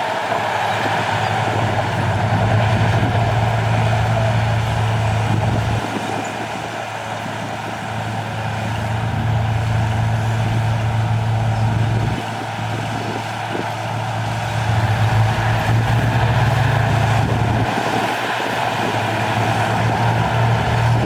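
Heavy diesel earthmoving machinery running steadily, a low engine drone whose pitch and level change abruptly every six seconds or so.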